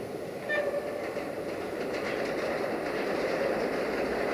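A train running along the track: a steady rumble of wheels on rails, growing slightly louder, with a brief squeal about half a second in and a few faint clicks over the rail joints.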